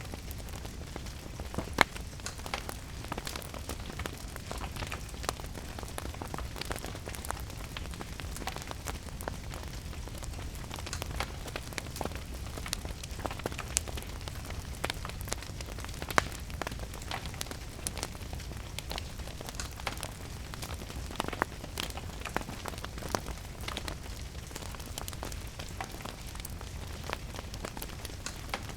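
Wood fire crackling in a fireplace, with irregular sharp pops, over steady rain and a low rumble. The loudest pops come about two seconds in and midway.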